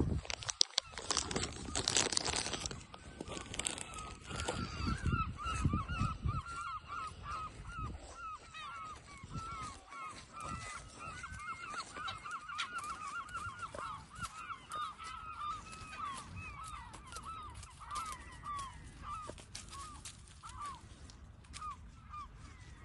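Waterfowl calling: a long run of short, quick calls, several a second, that thin out near the end. Loud rustling and knocks in the first few seconds.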